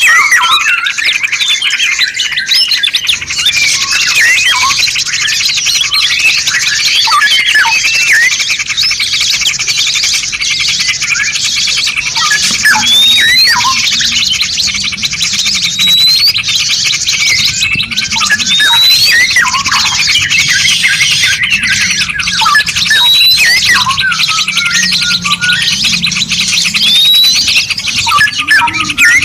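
A dense mix of songbirds singing: a fast, continuous high trill under many short chirps and whistles. From about halfway on, one bird repeats a short rising whistle every second or two.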